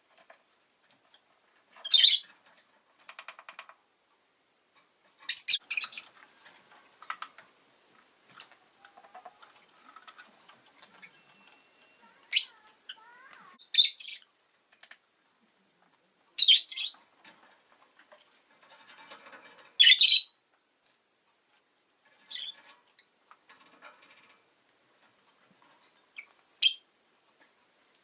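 Rosy-faced lovebird giving short, loud, shrill chirps every few seconds, with quieter twittering and chatter in between.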